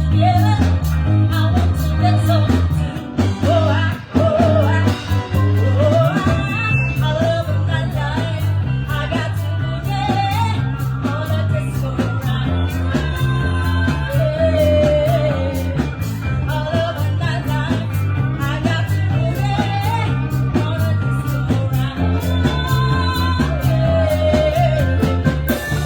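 Live band performing a song: a singer over a stepping bass line and a steady drum beat.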